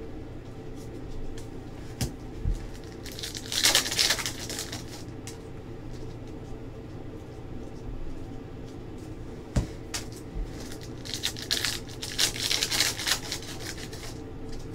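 Trading card pack wrappers crinkling and tearing open in two stretches, about three seconds in and again near the end, with cards being handled and a few light taps, over a steady low hum.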